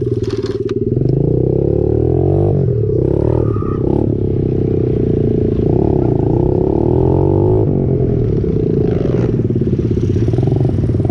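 Small pit bike engine running hard, its pitch rising and falling as the throttle is opened and eased off, with a brief rattle in the first second.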